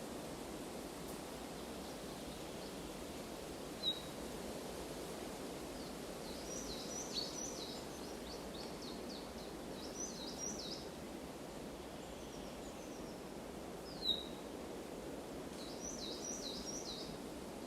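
Forest ambience: a steady low rushing background with small birds calling over it. Two sharp downward chirps, about four seconds in and again near fourteen seconds, are the loudest sounds, with bursts of quick high twittering in between and near the end.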